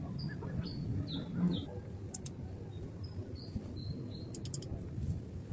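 A small bird chirping: short, high notes in two quick runs, one at the start and one past the middle, over a steady low rumble.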